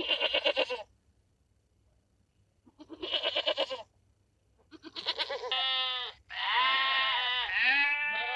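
A farm animal bleating: a short bleat at the start, another about three seconds in, then a longer run of wavering bleats with falling and rising pitch from about five seconds on.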